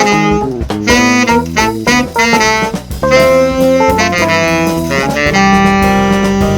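Jazz saxophone playing quick runs of notes, then holding one long note from about five seconds in, with accompaniment underneath.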